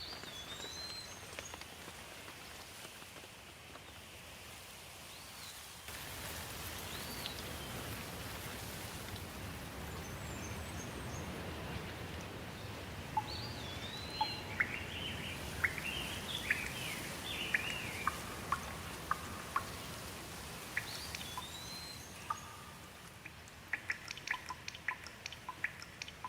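Steady rain hiss with birds calling over it: a curved whistled note repeated several times, a run of short varied chirps in the middle, and a quick patter of clicks near the end.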